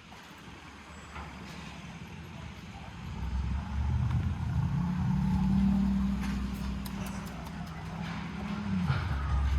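A motor vehicle's engine passing close on a city street. It grows louder from about three seconds in, its pitch rises and holds, then drops near the end.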